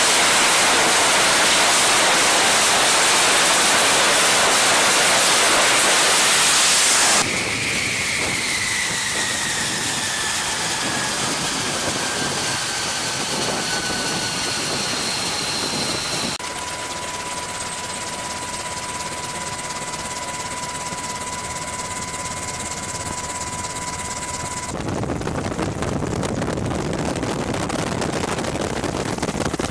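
F-35B jet engine running on a carrier deck, heard over several abrupt cuts. First a loud, even roar; then, after a sudden drop about seven seconds in, a whine that slowly falls in pitch; then a steady high whine; then a broad roar again near the end.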